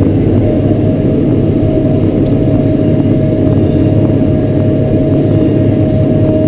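Caterpillar 140K motor grader's diesel engine running steadily under working load, a deep rumble with a steady high whine over it.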